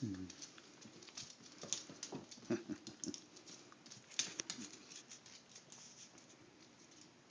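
Light, irregular pattering and clicking of small feet and claws as a Yorkshire terrier and a Bronze Wing Pionus parrot scamper about.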